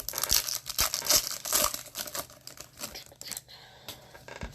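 A foil trading-card pack wrapper being torn open and crinkled: a dense run of crackling that dies down over the last second.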